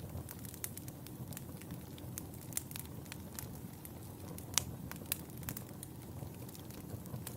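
Wood fire in a fireplace burning with a low steady rumble and irregular sharp crackles and pops, one louder pop about halfway through.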